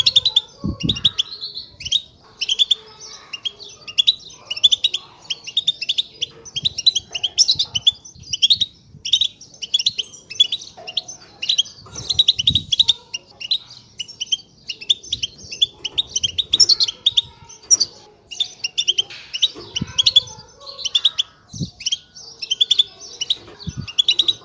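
A group of European goldfinches twittering together in a dense, unbroken stream of rapid chirps and trills. This is the excited group chatter that keepers play to stir goldfinches into song. A few low thumps sound underneath.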